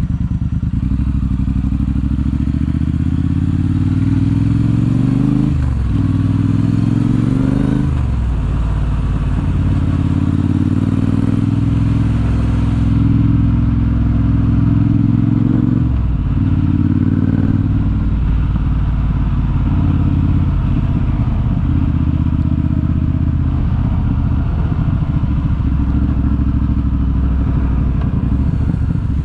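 Triumph T120 parallel-twin engine through a Zard aftermarket exhaust, under way: the note climbs with acceleration and drops sharply at upshifts about five and a half, eight and sixteen seconds in, then holds a fairly steady cruise.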